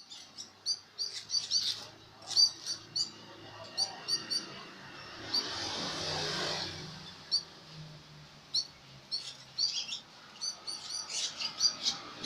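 Canaries chirping in short, quick high calls, often in pairs or brief runs. A swell of noise rises and fades about halfway through.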